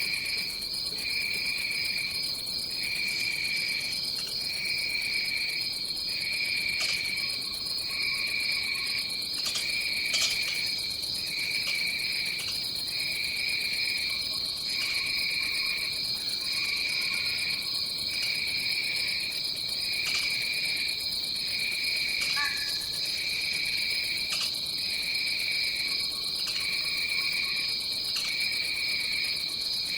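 Tropical rainforest insect chorus: a steady high trill, with a second, lower call that pulses on and off about once a second. A few faint clicks and one short falling call come through near the middle.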